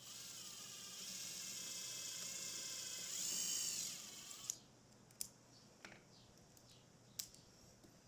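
Power drill running for about four and a half seconds with a high motor whine, its pitch dipping and rising just before it stops, followed by a few sharp clicks.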